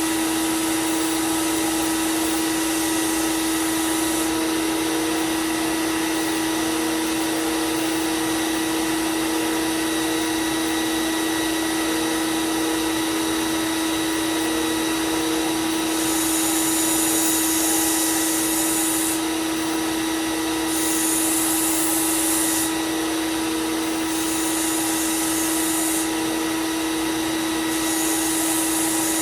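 Belt sander running with a steady hum while a knife blade is ground against the belt to thin its bevel. Each grinding pass adds a hiss, with several passes in the second half.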